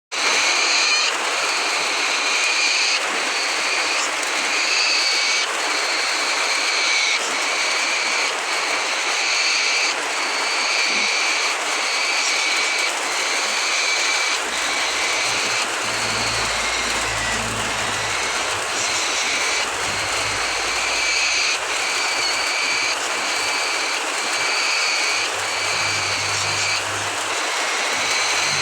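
Medium sulphur-crested cockatoo whining: a harsh, rasping call repeated without letup, in stretches of one to two seconds separated by short breaks.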